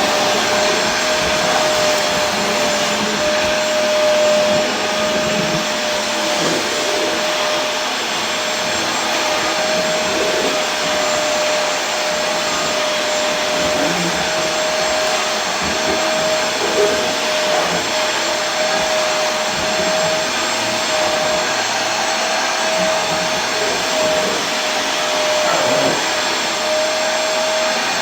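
Vacuum cleaner running steadily: a continuous rushing hiss with a steady motor whine held at one pitch.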